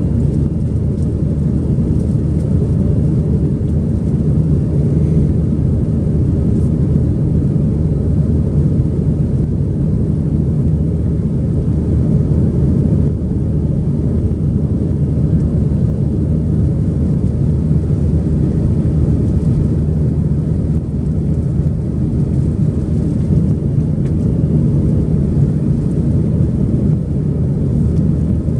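Steady, loud low rumble inside the cabin of an Airbus A320-200 under engine power, the engines and airflow heard from a passenger seat.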